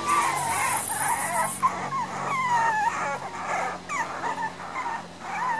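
Miniature Pinscher puppies, about six weeks old, whimpering and whining in a string of short, high cries that rise and fall in pitch.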